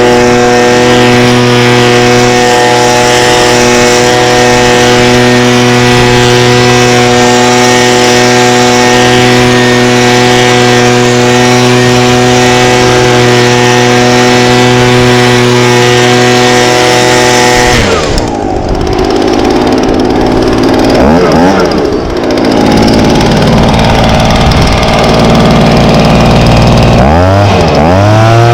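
Stihl BG55 handheld leaf blower's 27cc two-stroke engine running at a steady high speed. About 18 seconds in the steady note breaks off into a rougher, unsteady sound, with a few surges that rise and fall in pitch near the end.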